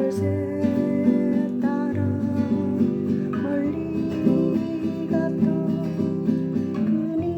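Acoustic guitar playing a slow song, plucked and strummed notes over sustained tones.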